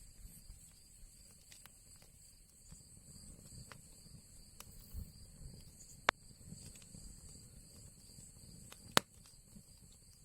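Wood fire crackling in an old chimney fireplace: scattered small crackles over a low rumble, with two sharp pops, one about six seconds in and a louder one about nine seconds in.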